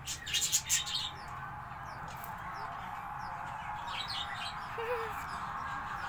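Small cage birds in an aviary chirping: a quick flurry of sharp, high chirps about half a second in, then scattered single chirps over a steady background hiss.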